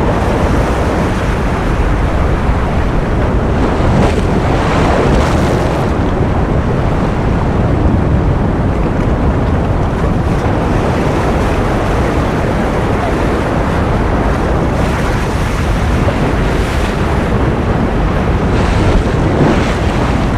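Ocean surf: a continuous, steady wash of waves, heaviest in the low end, swelling briefly brighter a few times as waves break.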